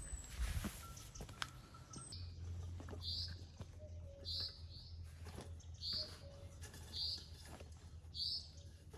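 A bird chirping over and over, one short high call about every second from about three seconds in. Scattered light taps and a low steady hum sit underneath.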